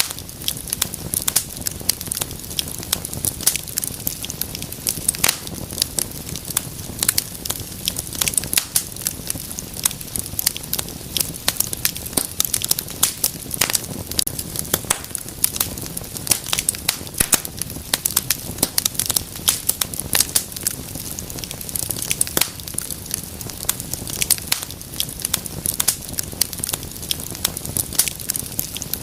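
Wood fire crackling steadily: a dense, irregular run of sharp pops and snaps over a soft low rush of flame.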